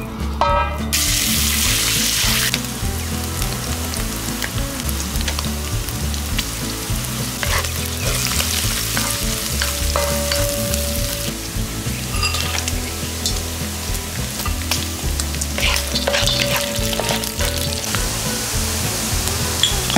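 Minced pork frying in hot oil in a wok: a sizzle that bursts up about a second in as the meat hits the oil and then keeps on steadily, with a wooden spatula scraping and stirring through it.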